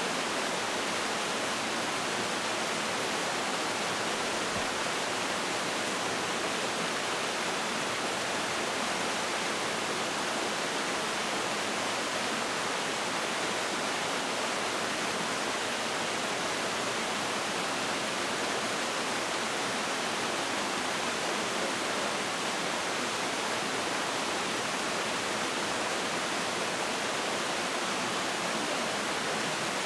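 Mountain valley stream rushing over rocks: an even, unbroken wash of water.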